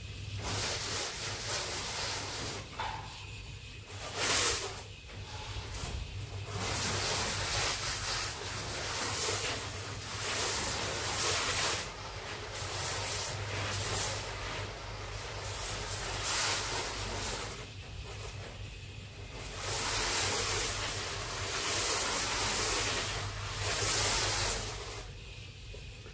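A hissing noise that swells and fades in long waves, over a steady low hum.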